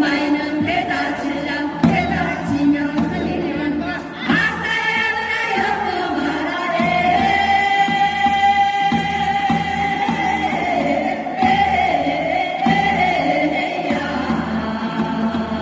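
A group of voices singing together, holding one long note through the middle.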